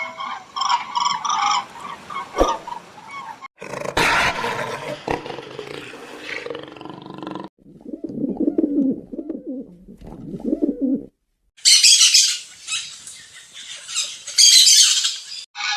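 A run of short animal-sound clips cut one after another: high chirping and peeping of birds, a noisier stretch, then lower animal calls in the middle, and high chirping again near the end.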